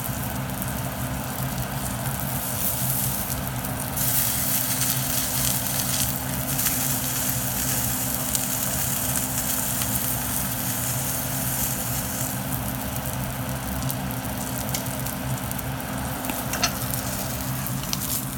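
Food sizzling as it fries in a pan, a steady crackling hiss that grows louder about four seconds in and eases again later, over a steady low hum.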